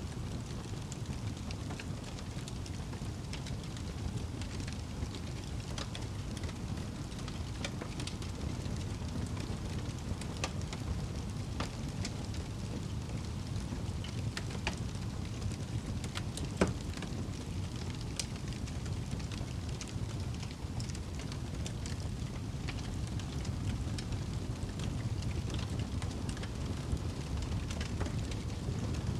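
Wood fire crackling in a fireplace: a steady low rumble of flames with scattered sharp pops and snaps, one louder pop about halfway through.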